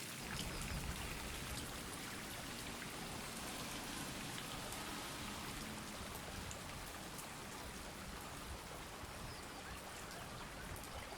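Steady rainfall, with individual drops ticking over an even hiss of rain.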